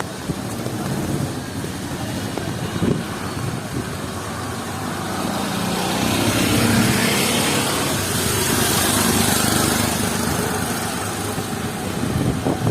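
Street traffic on a rain-wet road: a motor vehicle's engine running close by, with tyre hiss, growing louder about halfway through.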